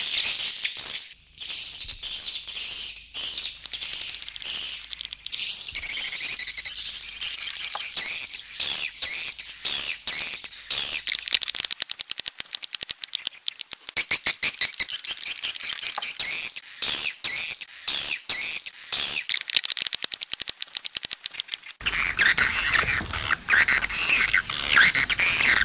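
Swiftlets (walet) calling: a dense run of rapid chirps and twittering trills mixed with fast clicking. About 22 s in the sound changes to a thicker, somewhat lower chatter.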